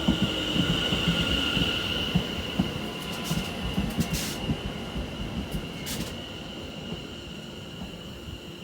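A London Overground Class 710 electric multiple unit rolling slowly into the platform and braking, with a steady high-pitched brake squeal that fades and irregular knocks from the wheels over the rail joints. A few short hisses come around the middle as it slows.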